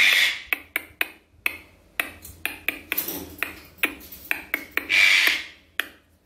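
Sharp clicks in an uneven rhythm, about two to three a second, like snaps keeping time, with two short harsh rasping noises, one at the start and one about five seconds in.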